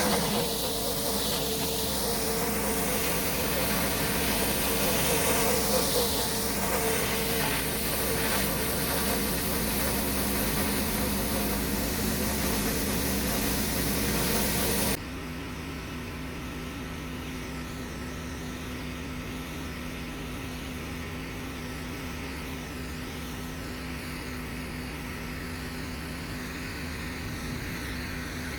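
Pressure washer running, its spray hissing on concrete. About halfway through the sound drops suddenly to a quieter, duller steady hum.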